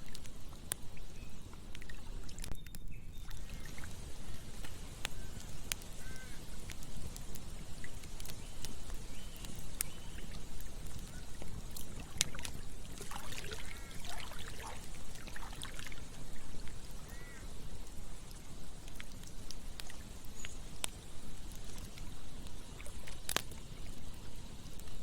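Campfire burning: a steady low rumble with sharp crackles and pops scattered through it. Several short bird calls come in near the middle.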